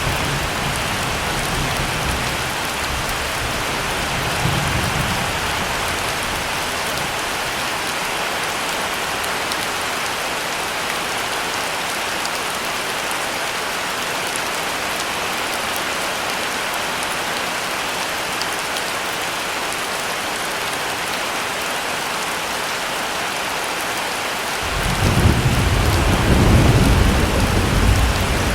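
Heavy rain falling steadily, with faint low rolls of thunder at the start and a louder roll of thunder that builds near the end.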